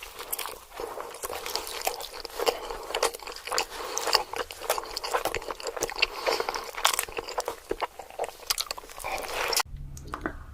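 Close-miked biting and chewing of crispy fried chicken: dense, crackly crunches with each bite and chew. The crunching stops abruptly near the end.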